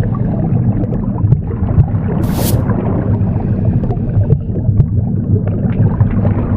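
Womb sound, a loud, muffled, low rumbling whoosh, mixed with a single swish of a broom sweeping about two seconds in.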